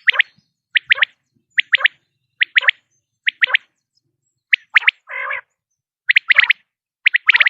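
Common quail song: a clipped three-note 'wet-my-lips' phrase repeated about once a second, with a brief pause near the middle. A short, harsher rasping call follows that pause.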